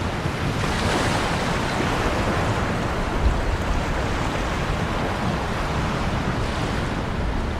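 Ocean waves washing in a steady, continuous rush of surf, with gentle swells in loudness.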